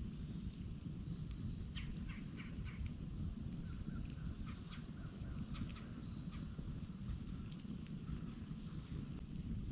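Campfire burning: scattered sharp crackles and pops over a steady low rumble, with a quick run of four short sounds about two seconds in.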